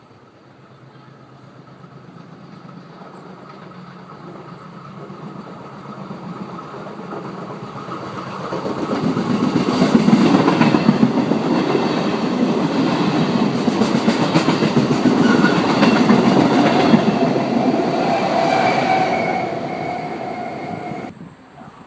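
A train approaching and passing through a station: a rumble that builds for several seconds, then loud rolling with rapid wheel clicks over rail joints as the cars go by. A steady high tone sounds near the end, and the sound stops abruptly about a second before the end.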